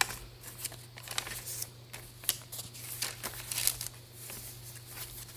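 Paper pages, tags and inserts of a handmade junk journal being handled and turned, rustling and crinkling in a string of short, irregular rustles.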